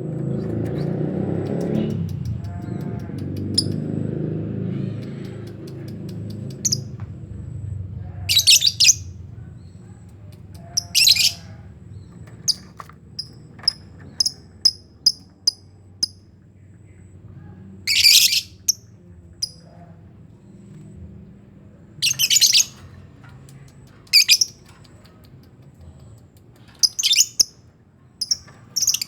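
A colony of lovebirds calling: loud, shrill screeching calls come every few seconds, with short chirps between them. A low rumble fills the first few seconds.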